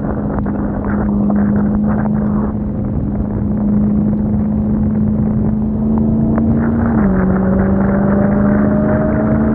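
Supercharged 6.2-litre Hemi V8 of a Dodge Hellcat Redeye at a steady highway cruise, with tyres hissing on a wet road. The engine's pitch drops a step about seven seconds in.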